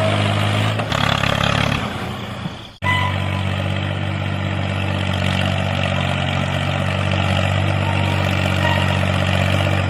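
Steady engine-like running hum. It breaks off abruptly about three seconds in and resumes straight away at an even pitch.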